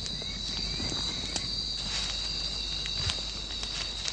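Steady high-pitched drone of rainforest insects, with a few scattered light clicks.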